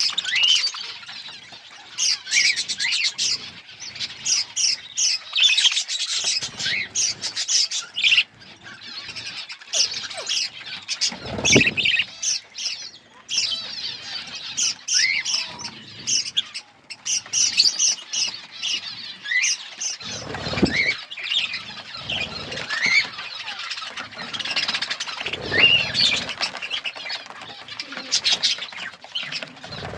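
A colony of budgerigars chattering, with constant overlapping chirps and squawks. Three low thumps stand out, spread through the clip.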